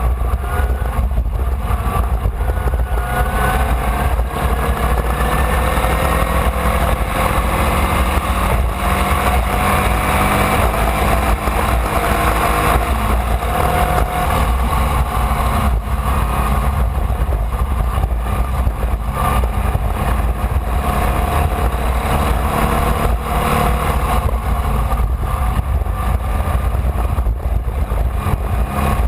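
Air-cooled Volkswagen flat-four engine of a Formula Vee race car, heard from onboard at racing speed. Its pitch climbs slowly over long stretches and drops back, over a heavy low rumble.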